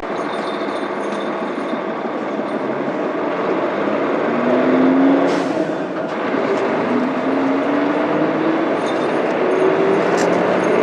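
Mitsubishi Fuso Aerostar bus's 6M70 straight-six turbodiesel accelerating from a stop through its manual gearbox, rising in pitch three times with the pitch dropping at each gear change, about five seconds in and again near nine seconds. A brief hiss comes at the first shift.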